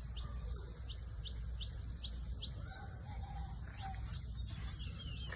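A bird chirping, a run of short high notes repeated about two or three times a second, then more varied high calls, over a steady low rumble.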